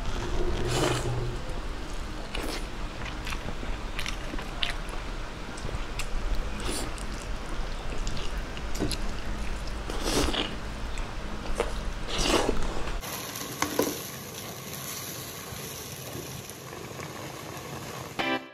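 Close-miked mukbang eating sounds: biting and chewing chicken adobo, with irregular wet smacks and crunches. About thirteen seconds in, this gives way to a quieter, steady hiss of the pot of adobo simmering.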